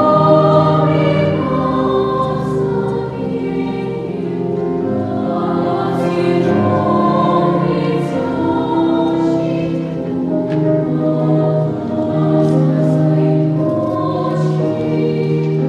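Children's choir singing in academic style, holding long chords in several parts, with a few crisp 's' sounds cutting through.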